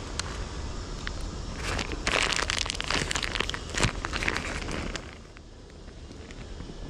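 Rustling, crinkling and crunching handling noise with scattered sharp clicks, densest from about two to five seconds in and then dying down, over a steady low rumble.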